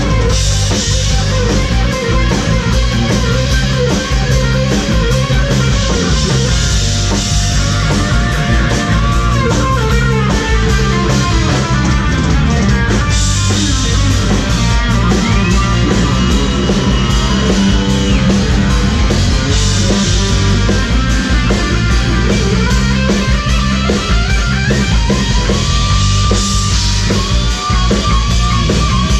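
Rock music: a guitar lead playing bent and held notes over a drum kit and bass.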